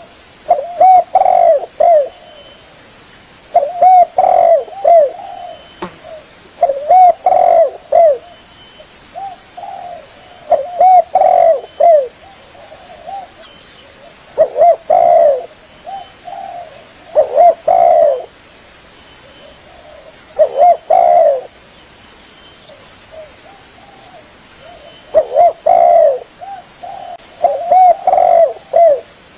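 Spotted dove (tekukur) cooing: about nine loud phrases of several rounded coos each, one every two to four seconds, as in a lure call for trapping doves.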